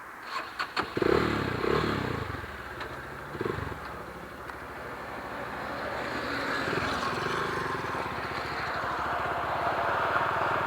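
GX-R 250 motorcycle engine: a few clicks, then a couple of short revs about a second in. It then runs steadily, slowly growing louder.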